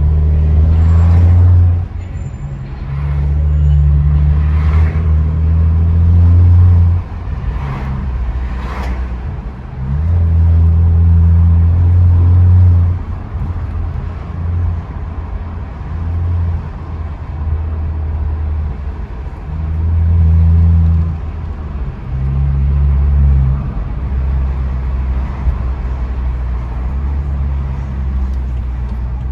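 Straight-piped BMW F10 exhaust running while the car is driven, a deep rumble that swells loudly about five times under throttle and drops back between.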